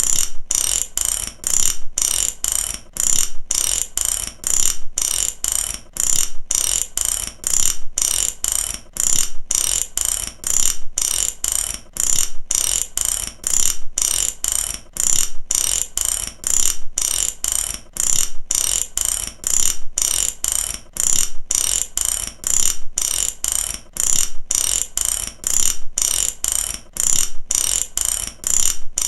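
Mechanic's ratchet wrench clicking in steady, evenly repeated strokes, each stroke a quick run of sharp pawl clicks.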